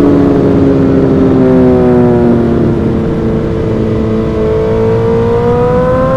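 Suzuki GSX-R1000 inline-four through an M4 aftermarket exhaust, running under way with no gear change heard. Its note sags slowly for the first few seconds, then climbs steadily toward the end as the bike accelerates.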